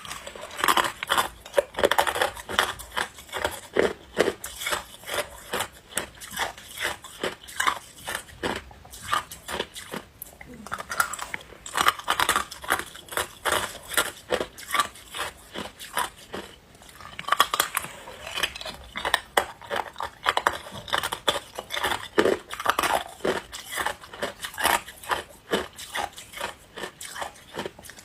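A person biting and chewing ice: rapid crunching and cracking, with a short pause about ten seconds in.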